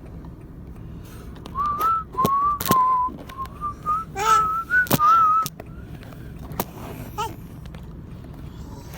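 A person whistling a short wavering tune in several brief phrases for a few seconds, then stopping, with a few sharp clicks and knocks around it.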